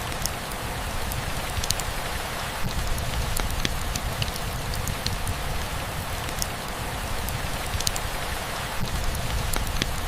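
Steady rainfall: an even hiss with many sharp individual drops ticking through it and a low rumble underneath.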